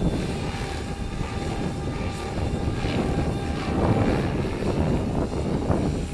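Stretched MSHeli Protos electric RC helicopter flying, its rotor and motor whine faint under heavy wind buffeting on the microphone.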